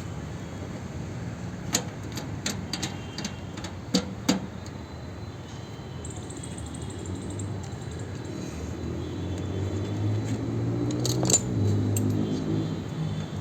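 Metal hand tools clinking and clicking several times in the first few seconds, over a steady low rumble that grows louder toward the end.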